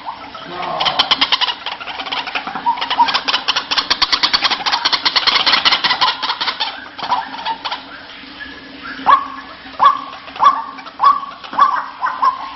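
White-breasted waterhen calling: a fast rattling run of notes for several seconds, then about six separate, repeated croaking notes spaced a little over half a second apart.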